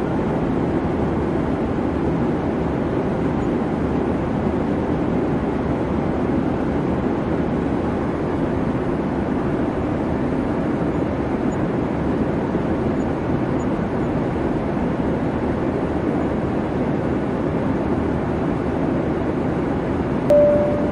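Steady rumble of airliner cabin noise. Just before the end, the first, higher note of a cabin PA chime sounds.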